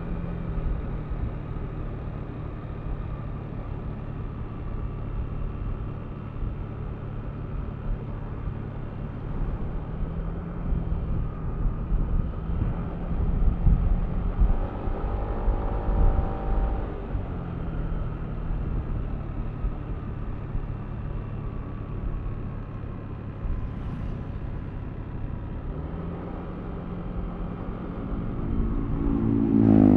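Yamaha Aerox V3 scooter's single-cylinder engine running under way with low rumble, the engine note mostly steady. It gets louder for a few seconds about midway, and rises in pitch and volume near the end as the scooter accelerates.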